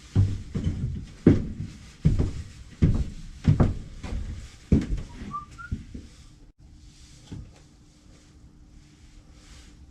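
Cedar fence-picket birdhouse parts handled on a workbench: a run of wooden knocks and thuds over the first five seconds. A brief two-note whistle follows, and then it goes quieter with a faint steady hum.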